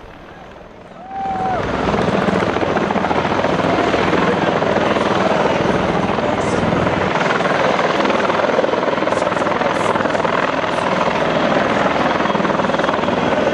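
Helicopter running with a loud, steady noise of engine and rotors, coming in suddenly about a second in.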